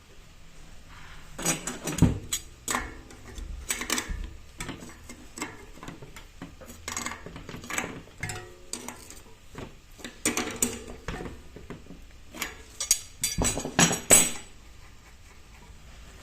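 Irregular metallic clinks, clicks and knocks of small metal parts and tools being handled, with louder clusters of clatter near the start and again near the end.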